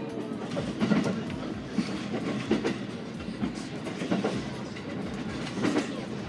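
Running noise heard inside a moving SR1 series electric train: a steady rumble with the wheels clicking over the rail joints.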